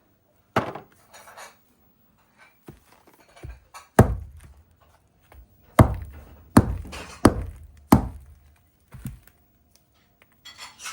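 Pine cones being chopped and broken open: a series of about seven heavy, sharp knocks at uneven intervals.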